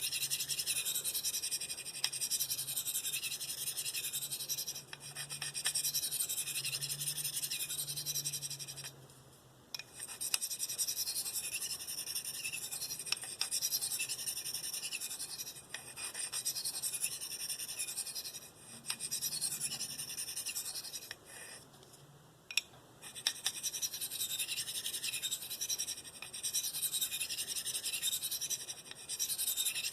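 S30V steel knife blade scraping across a medium ceramic bench stone in repeated light strokes, alternating sides, with a couple of short pauses. These are burr-reduction passes to weaken and remove the burr from the edge.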